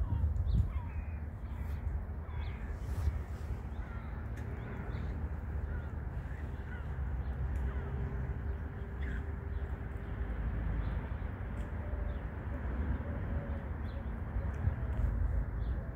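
Birds calling: short calls scattered throughout over a steady low rumble.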